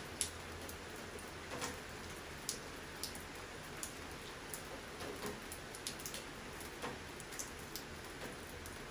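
Steady rain falling, with heavier drops landing close by at irregular moments as sharp ticks, the loudest about a quarter second in.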